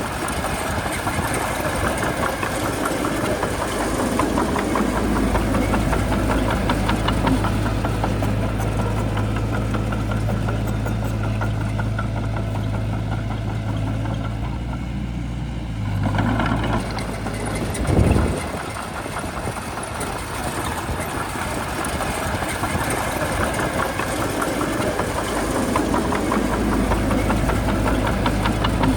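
Shantui bulldozer's diesel engine running steadily with a knocking clatter, its low tone shifting slightly as the load changes. There is one short loud thud about two-thirds of the way through.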